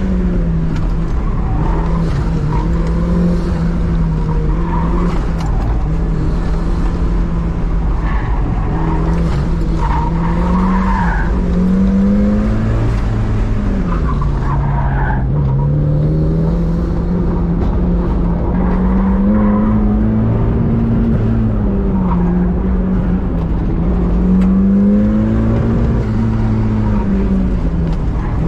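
Turbocharged 1.6-litre four-cylinder engine of a 1990 Mazda Miata running at speed, heard from inside the cabin, its pitch rising and falling repeatedly as the throttle comes off and back on. The tyres squeal in short bursts, most of them around the middle.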